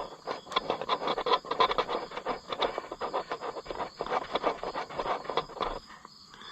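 Hand-tool work on metal parts: a fast, uneven run of clicks and scrapes that stops near the end.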